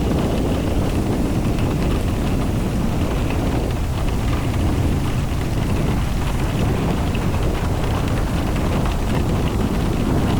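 Steady noise of a car driving in the rain: a low road and wind rumble with the hiss of rain.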